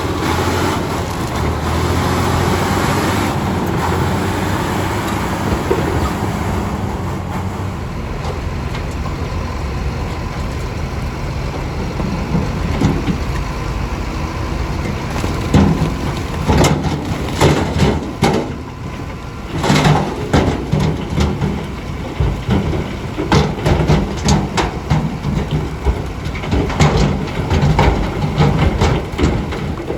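Bulldozer diesel engine running steadily. From about halfway on, irregular clanks and knocks come over it as the machine works the stone.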